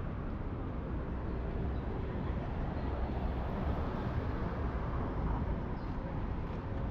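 Steady city street ambience: a low rumble of traffic with an even hiss over it.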